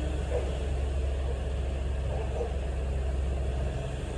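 An engine idling steadily, a low rumble.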